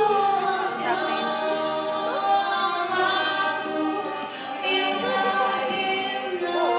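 Music: several voices singing together in harmony on long held notes, choir-like.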